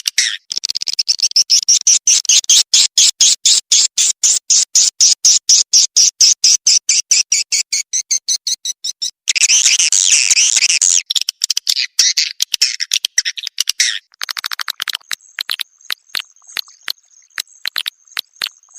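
Swiftlet lure recording of the kind played to call swiftlets into a nesting house and make them roost: a rapid, even run of high chirps at about five a second, a dense twittering stretch about ten seconds in, then sparser chirps over a thin steady high tone near the end.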